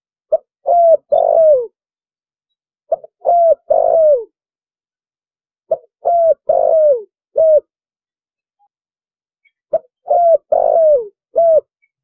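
Spotted dove cooing in the full, deep 'thổ bầu' style of call, phrase after phrase about every three seconds, four times. Each phrase is a short note and a coo, then a longer coo that falls at the end, often followed by a short last note.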